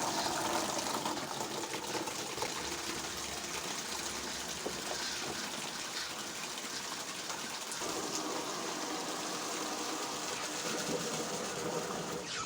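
Water running in a steady gush, as used for cleaning, starting just before and cutting off at the end.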